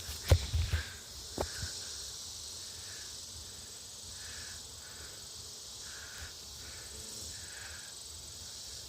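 Steady high-pitched insect chorus, with faint chirp-like pulses recurring about once a second. A few sharp knocks and rustles in the first two seconds.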